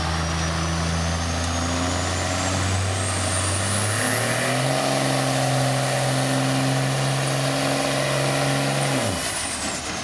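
Turbo diesel pickup, a Ford Power Stroke, pulling a sled under full load: the engine note steps up about four seconds in while a high turbo whistle climbs and holds. Near the end the driver lets off, and the engine and whistle drop away quickly.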